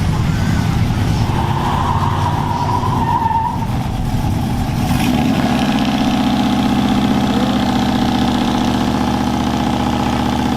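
A truck engine revving hard as the truck slides; about halfway through, the engine settles into steady high revs and holds them.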